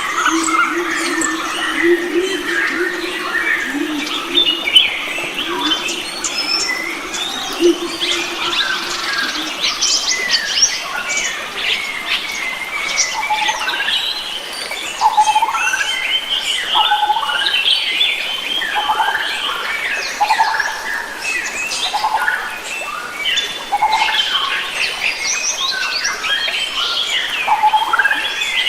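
Dense chorus of many wild forest birds calling and singing at once, with overlapping chirps, trills and short whistled notes. A low wavering call runs underneath for about the first nine seconds, then stops.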